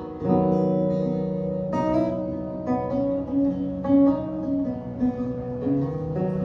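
Acoustic guitar playing an instrumental passage between sung lines of a song, with strummed chords and single picked notes ringing between them.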